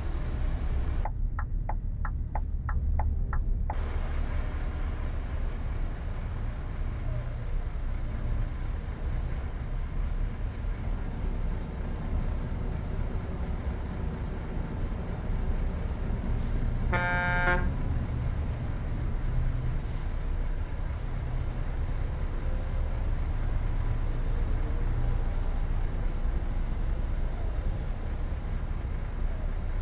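Scania R730's 16-litre V8 diesel running steadily under way, a low drone throughout. Near the start a row of about seven even ticks over some three seconds, and about halfway a short horn toot.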